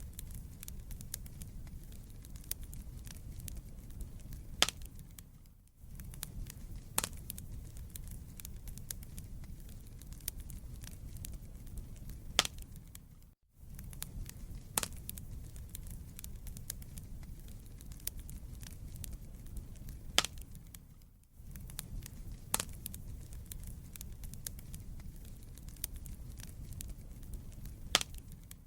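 Wood fire crackling, with sharp pops over a low steady rumble of the flames. The sound dips out briefly about every eight seconds, as at the seam of a looped recording.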